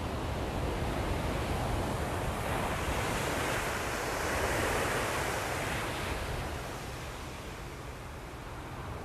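Ocean surf: a wave's rush swells in the middle and then eases off as it washes back. A steady low rumble of wind on the microphone runs underneath.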